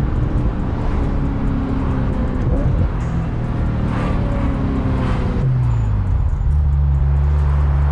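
Ferrari 355's 3.5-litre V8 through a Tubi exhaust, running with its pitch easing slowly down, then dropping about five seconds in and settling into a steady low drone.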